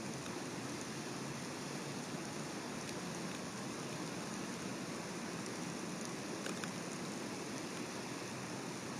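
Steady rain falling around an outdoor nest-cam microphone, an even hiss with a couple of faint drip ticks about six and a half seconds in.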